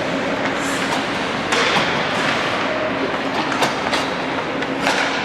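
Steady din of a youth game in play, with a few sharp knocks: one about a second and a half in, one past the middle and one near the end.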